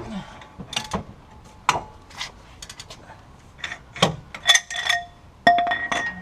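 Hand tools working on the wheel hub's mounting bolts: irregular metal clicks and knocks from a ratchet and socket, with a few short ringing metallic clinks in the second half.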